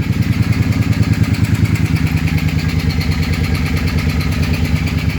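2006 Suzuki Boulevard C50T's V-twin engine idling low and steady, with an even pulse, shortly after a cold start.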